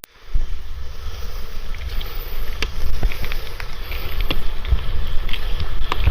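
Wind buffeting the microphone in an uneven low rumble, with scattered light clicks and crackles over it.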